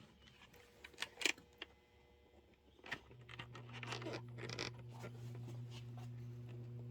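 HO-scale Proto 1000 RS-11 locomotive with seized, freshly oiled gears: a few handling clicks and scrapes, then about three seconds in a steady electric hum comes on with some grinding and scraping over it. The motor is under power and straining against gearing that has not yet broken free.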